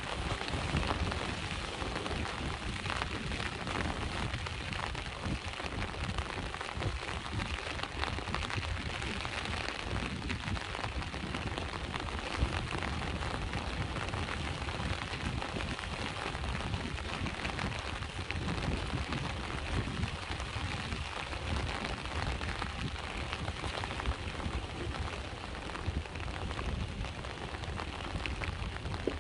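Steady rain falling together with sea waves, a continuous hiss over a low rumble, with one sharper hit about twelve seconds in.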